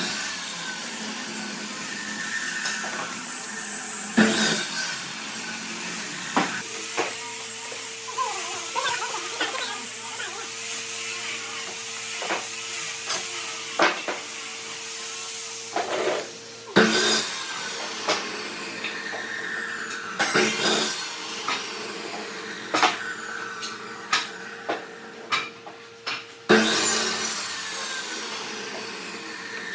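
Power tools working wood: a steady motor whine with grinding or sanding noise and scattered sharp knocks, changing abruptly several times.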